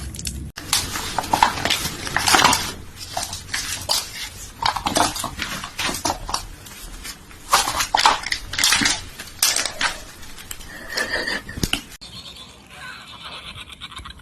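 Irregular clattering and knocking of hard objects, quieter near the end.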